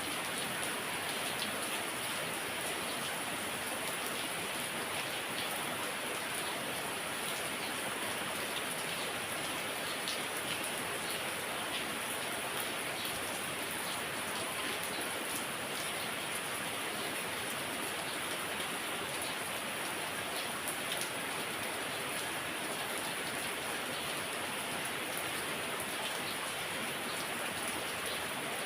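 Heavy rain falling steadily, a dense hiss of rain with many individual drops pattering on surfaces.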